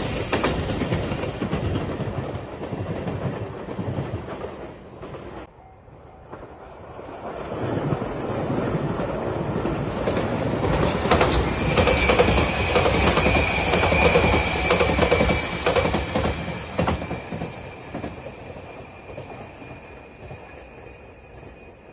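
Two electric passenger trains pass close by one after the other, their wheels clattering over the rail joints. A short lull about five seconds in separates the two passings. A steady high whine runs through the second passing as it fades away.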